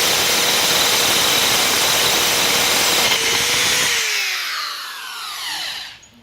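Power drill with a carbide tile-and-glass bit grinding dry into hard porcelain, with no water or coolant, which melts and shatters the carbide tip. About four seconds in the grinding stops and the drill's whine falls in pitch as the motor winds down.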